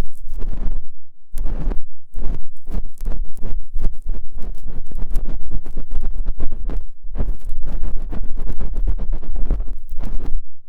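ASMR ear cleaning: a tool scraping and rubbing at a microphone's ear close up, giving a dense run of loud, irregular scratches over a deep rumble, with a short pause about a second in.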